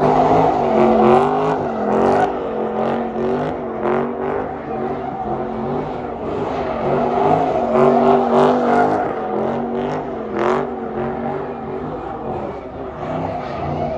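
BMW F80 M3's twin-turbo inline-six engine revving up and down over and over, with a few short sharp cracks about two, four, eight and ten seconds in.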